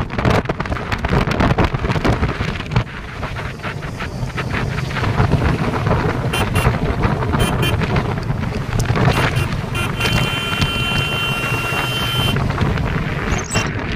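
Royal Enfield motorcycle running on the move, its engine rumble mixed with heavy wind buffeting on the microphone. A steady high tone sounds for about two seconds past the middle.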